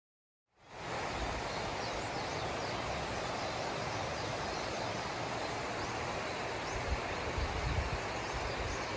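Steady outdoor ambience: an even rushing noise that fades in after a half-second of silence. A few low rumbles of wind on the microphone come in the last few seconds.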